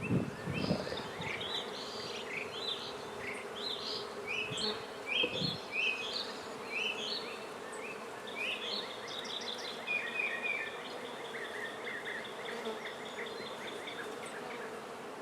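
Honey bees humming steadily around an open hive, with short high chirps and a long rapid trill sounding over the hum and a couple of low knocks in the first seconds.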